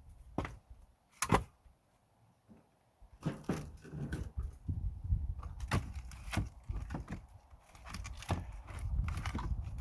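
Pine firewood logs being handled and stacked, knocking and thunking against each other. A single sharp knock comes about a second in, then after a short lull a run of irregular knocks follows over a low rumble.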